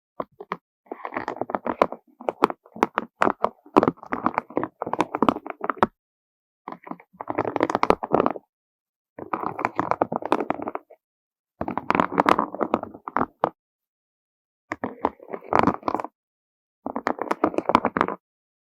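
Beads being stroked by hand, clacking softly against one another in repeated bursts of one to two seconds with short silent gaps between strokes.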